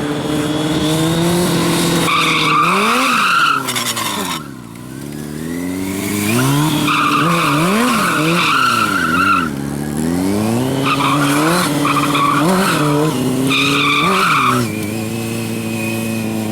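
A vehicle being drifted: its engine revs up and down again and again under throttle blips while the tyres squeal in several stretches of a second or more, with a short lull about four seconds in.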